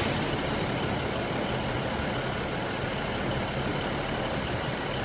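Steady rumble and hiss of railway station ambience under a train-shed roof, with faint ticks now and then and no distinct event.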